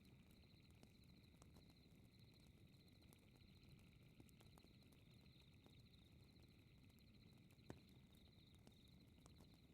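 Faint fireplace crackle, wood fire popping with scattered small clicks over a low rumble, and one sharper pop near the end. A high, rapidly pulsing chirp runs steadily underneath, like night insects.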